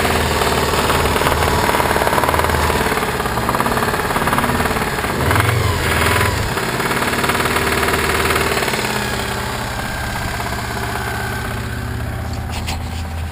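Subaru Legacy flat-four boxer engine running with its cam belt covers off, with a knocking noise that the owner, having ruled out the belt tensioners and pulleys, thinks is coming from inside the engine. It changes pitch briefly about five seconds in, then runs on a little quieter.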